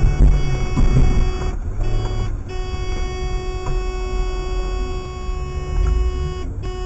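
A car horn held in one long steady blast over low engine and road rumble.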